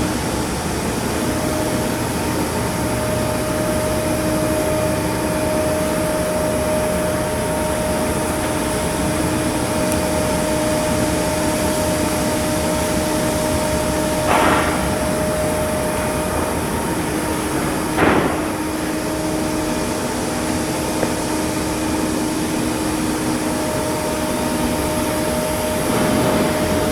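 Shipyard work noise: steady machinery running with a constant whine, broken by two short knocks, one about halfway through and another a few seconds later.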